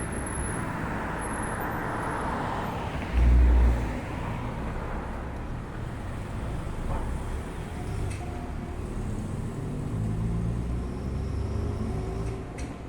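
Steady outdoor background rumble, with a brief loud low thud about three seconds in.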